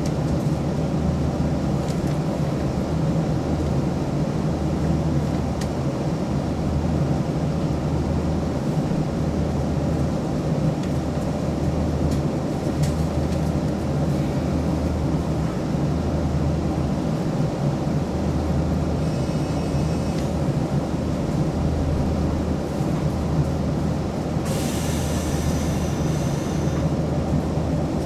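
Steady hum and rumble of an electric train standing at the station with its equipment running; the low hum swells and fades about once a second. A brief high-pitched sound comes in near the end.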